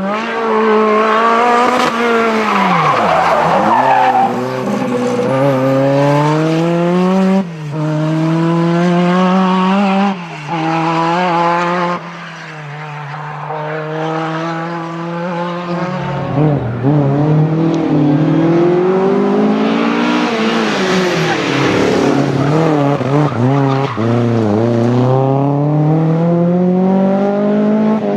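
Historic rally car engines revving hard through the gears, the pitch climbing and then dropping sharply at each shift, with cars sweeping past close by and some tyre squeal.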